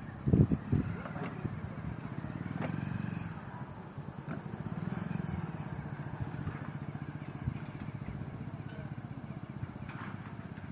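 An engine running steadily with a low, fast-pulsing hum. There is a short loud burst just after the start.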